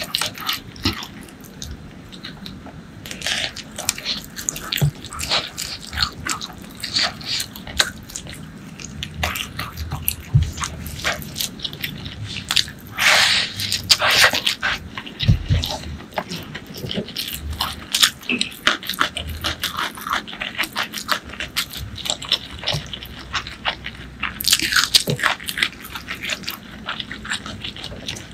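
Close-miked eating sounds: a person chewing and crunching crispy fried crumb topping with fish and rice. Many small crunches and wet mouth clicks follow each other throughout, with heavier crunching about halfway through and again near the end.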